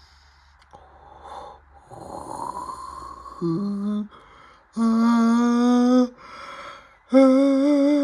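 A person's voice making drawn-out hummed notes over the low noise of the washing machine: a short note that drops in pitch, then two long held notes, the last wavering up and down.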